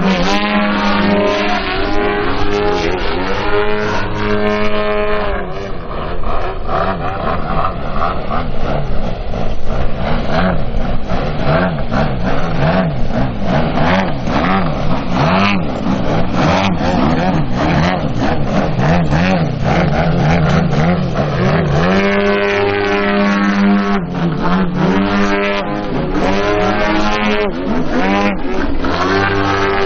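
Engines of two RC Extra 330 SC aerobatic model planes flying together. The pitch keeps rising and falling as they throttle up and down. The sound is denser and more jumbled through the middle.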